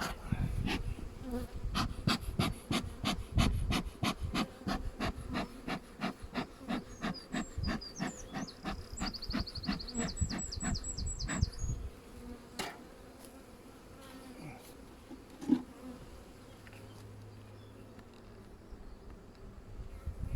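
Honeybees buzzing around an open hive. A run of fast, evenly spaced clicks goes on for about ten seconds, with a brief burst of high, quick chirps partway through.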